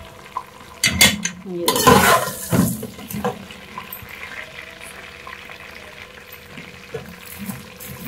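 Broken vermicelli frying in hot oil in a pan: a steady sizzle, with a spoon stirring and clattering against the pan, loudest around one to three seconds in.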